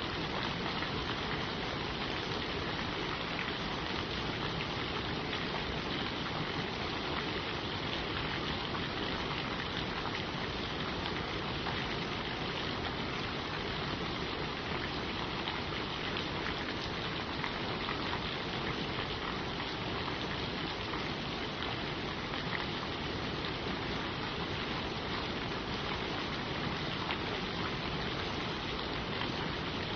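Steady rain falling on leaves, a constant hiss with faint scattered drop ticks.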